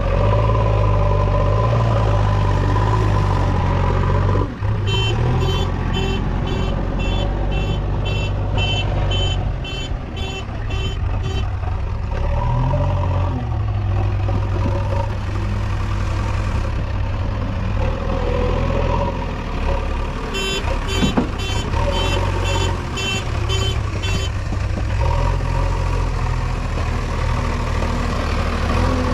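JCB 3DX backhoe loader's diesel engine running under varying load while it loads mud. A reversing alarm beeps about twice a second in two runs: for several seconds starting about five seconds in, and again for a few seconds past the twenty-second mark.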